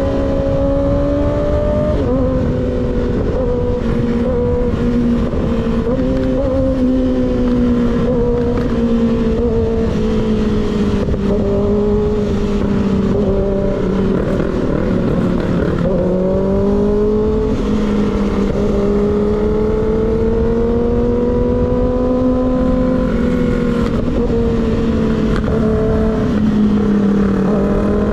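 Motorcycle engine with an unbaffled slip-on exhaust, running at a steady cruise. Its note drifts up and down with the throttle and dips briefly a few times, over a constant rush of wind noise.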